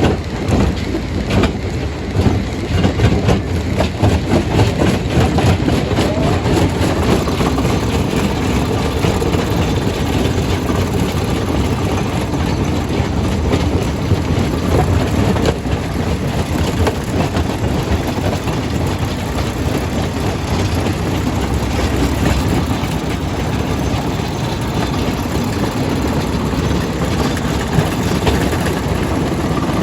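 Rock crusher running under load: a steady, heavy machine rumble with the clatter and knocks of stone being broken, the knocks densest in the first several seconds.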